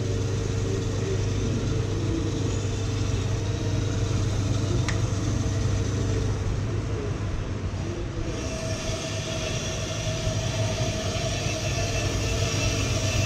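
Ammco 4000 brake lathe running steadily, turning a brake rotor for a light skim cut of about a thousandth of an inch. About eight seconds in the sound changes, with a new higher tone and more hiss.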